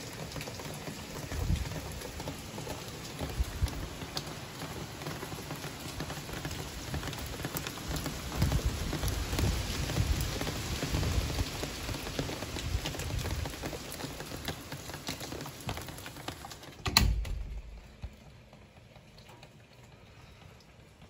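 Steady heavy rain hissing, with gusty wind rumbling on the microphone in uneven surges. A single sharp thump comes about 17 seconds in, and after it the sound is much quieter.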